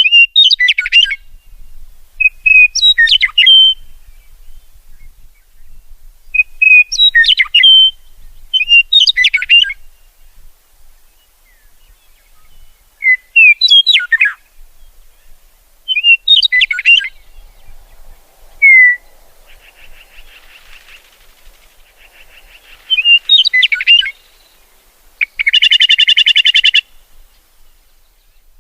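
A songbird sings short phrases of quick whistled notes, repeated every two to three seconds. A faint buzzy trill comes a little past the middle, and a loud, harsh buzzing call lasts about a second and a half near the end.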